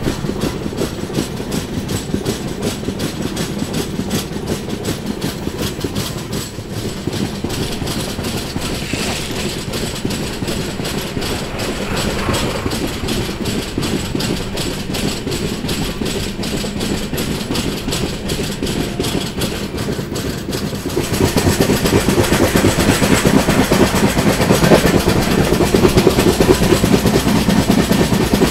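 Konark Express passenger train running along the line: a steady rumble and clatter of wheels on rails, which gets louder about two-thirds of the way through.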